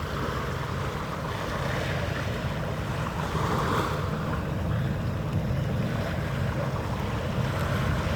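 Steady low rumble with wind gusting on the microphone, swelling and easing every second or two; no ship's horn.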